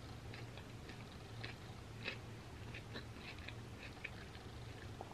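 Faint, close-miked chewing of a mouthful of creamy pasta salad: soft, wet mouth clicks several times a second, over a low, steady hum.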